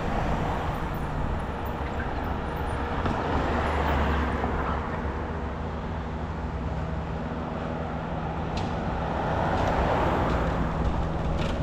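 A vehicle on the move: steady road and wind noise under a low engine hum, swelling a little about four seconds in and again near the end.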